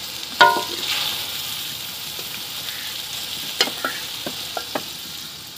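Gandal (mustard-stalk) and potato curry sizzling as it is fried in an aluminium pot and stirred with a metal ladle: a steady frying hiss, with the ladle striking the pot in a ringing clink about half a second in and a few lighter scrapes and clicks near the end.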